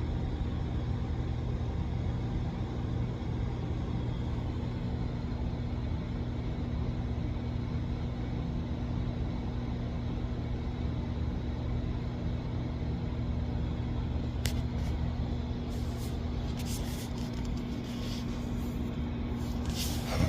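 Steady low mechanical hum with a constant pitched drone, and a few faint clicks in the last few seconds.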